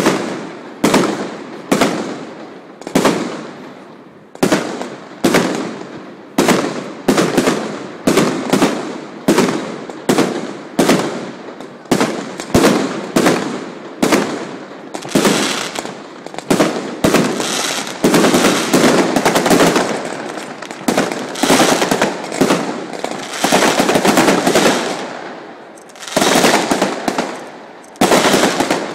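Aerial firework shells bursting in quick succession, about one or two sharp bangs a second, each dying away. From about fifteen seconds in the bangs run together into a denser crackling barrage, easing briefly near the end before more loud bursts.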